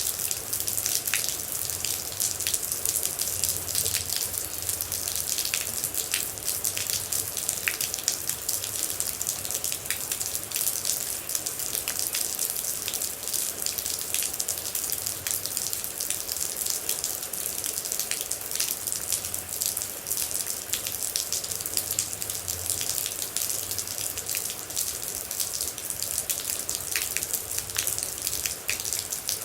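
Steady rain with many water droplets falling close by: an even hiss with frequent sharp drip clicks scattered through it.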